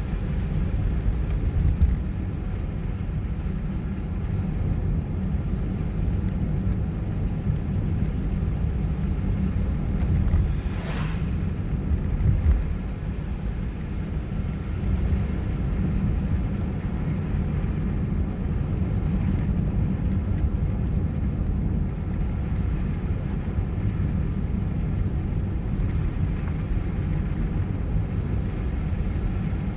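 Steady low rumble of a car driving, tyres and engine on the road, with a brief swish about eleven seconds in.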